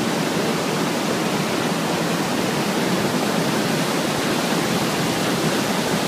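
Waterfall swollen with heavy rain, pouring with a loud, steady rush of falling water.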